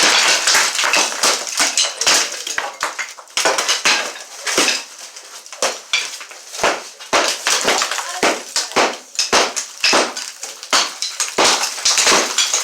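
Demolition work: repeated, irregular hammer strikes breaking up material, with pieces clattering and crashing down.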